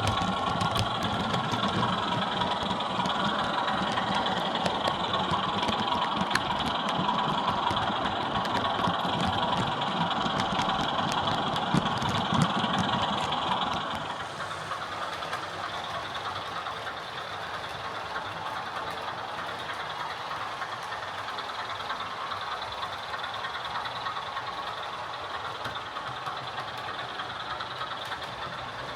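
Sound-fitted OO gauge Class 24 model locomotive playing a diesel engine sound through its small onboard speaker, with scattered light clicks. About halfway through, the engine sound drops to a quieter, steadier level.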